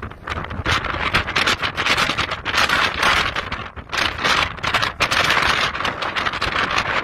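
Storm wind gusting, a rushing noise that swells and fades every second or so, with low buffeting on the microphone.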